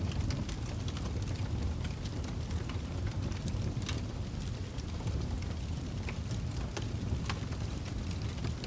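Wood fire in a fireplace crackling: irregular sharp pops and snaps, several each second, over a steady low rumble of burning.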